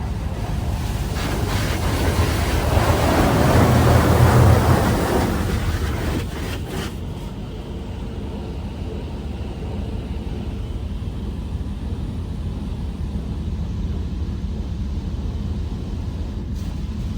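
Automatic car wash spray hitting the truck, heard from inside the cab: a hiss that swells to a peak about four seconds in and fades out by about six seconds. Under it runs a steady low hum of machinery.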